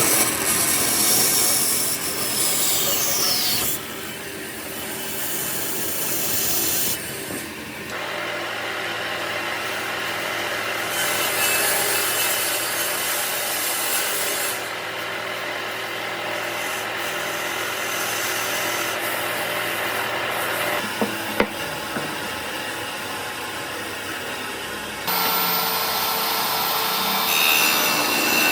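Wood being sawn and worked with tools, in a run of short clips whose sound changes abruptly every few seconds.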